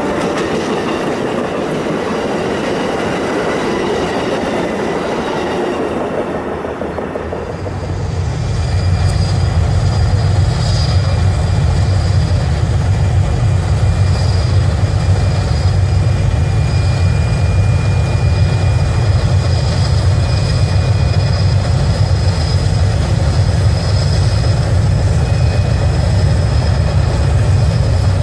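Passenger train cars passing at speed, their wheels clattering and rushing on the rails. About eight seconds in, this gives way to a diesel locomotive's engine running with a steady deep rumble while flame jets from its exhaust stack, typical of a blown turbocharger.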